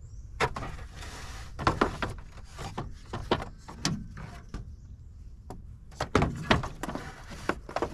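Irregular metal clicks and knocks from a stubby ratchet and socket being worked on a tight starter mounting bolt, with a few sharper clanks in small clusters.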